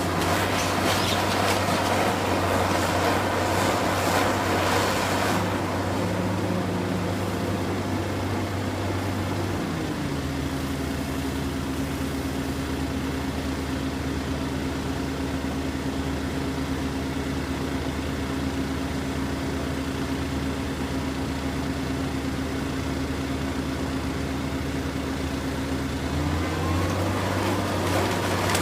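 An engine running steadily, its note shifting about ten seconds in and shifting back near the end. A rough, noisy rumble rides over it for the first few seconds.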